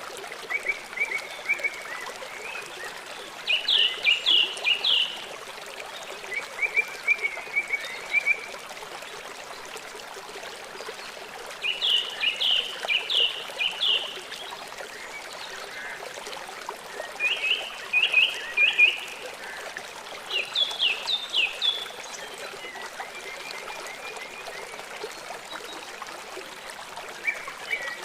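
Small songbirds singing short phrases of quick, downward-sweeping chirps, repeated every few seconds, over a steady hiss of running water.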